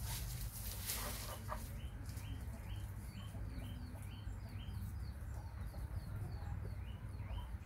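A small bird chirping in a steady series, about two or three short chirps a second, starting about two seconds in, over a low steady hum. A few clicks and rustles come in the first second or two.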